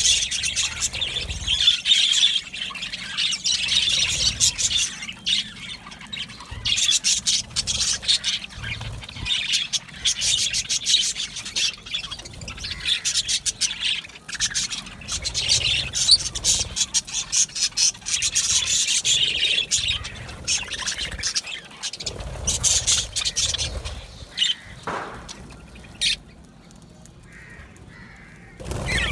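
A colony of budgerigars chattering and warbling together, a dense stream of rapid chirps and squawks that thins to a few scattered calls near the end.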